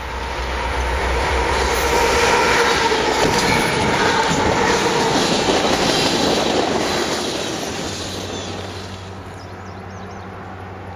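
Canadian Pacific freight train passing close by, its locomotive and then tank cars rumbling and clattering over the rails. The sound fades after about seven seconds and gives way to a quieter steady low hum.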